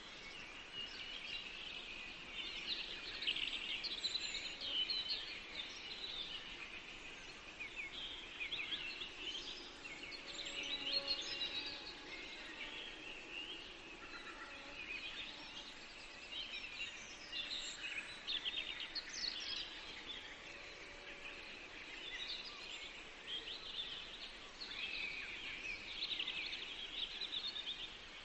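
Many songbirds singing at once, a dense chorus of overlapping chirps and trills with no pauses.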